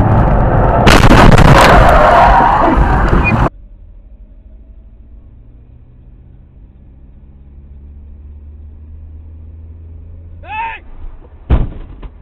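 Loud, distorted car-crash noise picked up by a dashcam microphone, with a sudden louder impact about a second in, cut off abruptly after about three and a half seconds. A quiet low hum follows, with a short voice and one sharp knock near the end.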